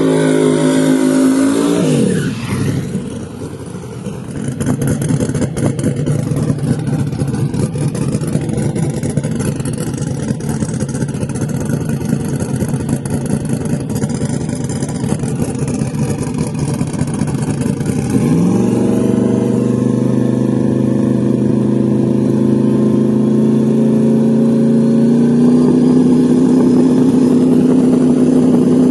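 Loud drag car engines. An engine revs and its pitch drops away about two seconds in, followed by a rough, rumbling run. From about 18 seconds a steady engine note climbs slowly in pitch.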